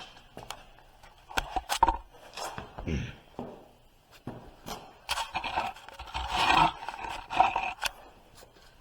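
Hand-handling noises of a part being fitted: scattered clicks and knocks, then a longer stretch of scraping and rubbing about halfway through.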